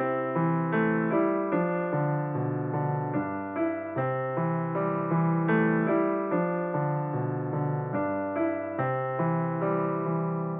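Background piano music: a steady flow of sustained notes and chords.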